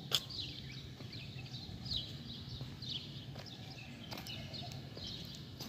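Small birds chirping over and over, short high calls that each fall in pitch, over a low steady background noise. A few sharp clicks cut through, the loudest just after the start.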